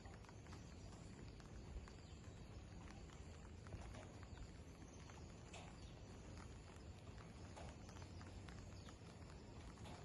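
Near silence: faint outdoor ambience, a low even rumble with scattered light clicks.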